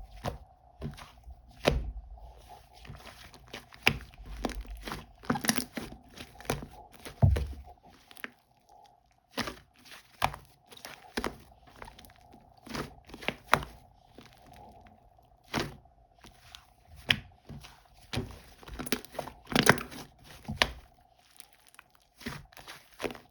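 Hands squishing and poking a fluffy whipped-cream slime, giving irregular short pops and crackles, a few a second with brief pauses, over a faint steady hum.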